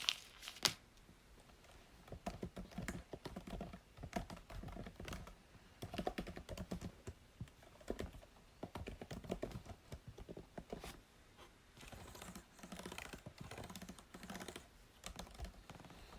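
Computer keyboard being typed on: quick runs of key clicks in bursts, with short pauses between them.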